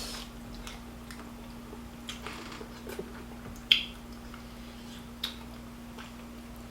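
A meal being eaten: chewing and mouth sounds with a few sharp clicks of dishes or utensils, the loudest about halfway through. A steady low hum lies underneath.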